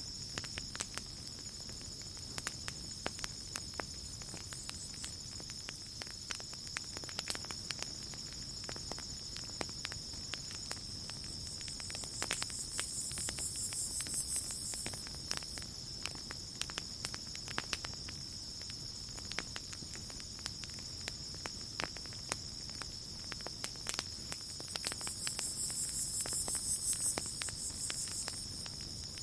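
Campfire crackling with scattered sharp pops over a steady chorus of chirping crickets. Twice a higher hiss swells up for a few seconds and fades.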